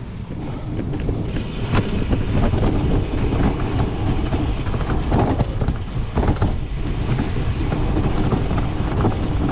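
Cyclocross bike ridden hard over rough ground, wind rushing on the microphone, with the frame and drivetrain rattling and knocking at each bump.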